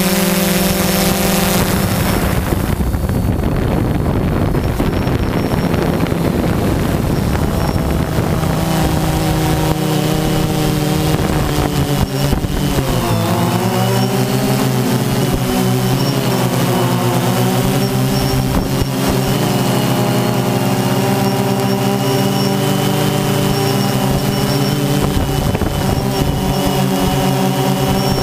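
A drone's motors and propellers whirring steadily, the pitch dipping briefly about halfway through and recovering as the craft changes speed.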